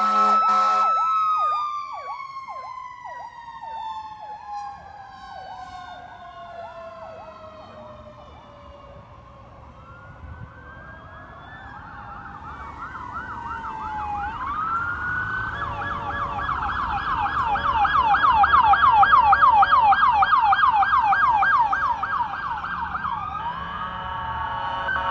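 Sirens of several responding emergency vehicles: a fire engine, police cars and an ambulance. In the first ten seconds one siren's long wail falls slowly in pitch, while an electronic yelp sweeps rapidly up and down. Then further sirens come closer with fast yelps, loudest a little before twenty seconds, and change to steadier tones near the end.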